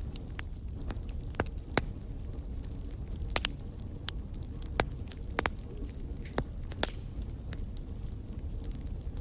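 Wood fire burning in a fireplace, with a low steady rumble of flame and irregular sharp crackles and pops, several louder snaps standing out.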